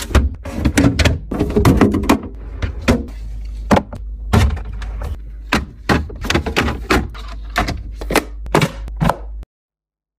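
Quick succession of clicks, knocks and thunks of food packages and plastic containers being handled and set down while restocking a fridge, over a low steady hum. The sound cuts off suddenly near the end.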